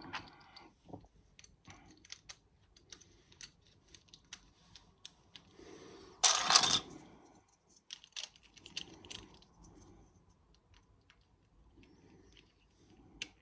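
Small plastic Lego pieces clicking and tapping as they are handled and fitted, with a louder rattle of pieces about six seconds in.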